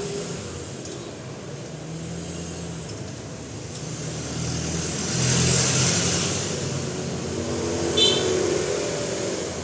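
A motor vehicle's engine swelling to a peak and fading as it passes, over a steady low hum. There is a sharp metallic clink near the end.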